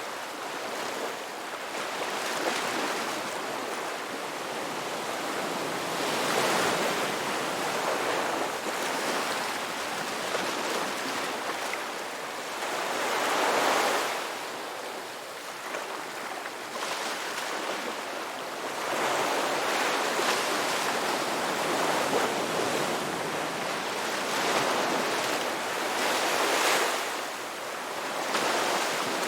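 Ocean waves breaking and washing in, a continuous rush that swells and eases every few seconds, with one larger wave about halfway through.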